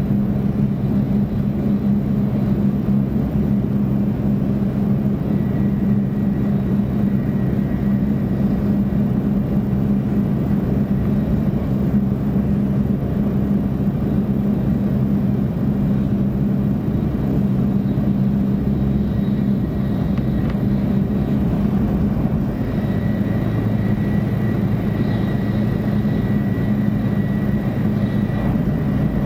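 Running noise of a 500 Series Shinkansen heard from inside the passenger cabin: a steady, even rumble with a low hum. A faint high whine comes in about six seconds in and again from about twenty-two seconds.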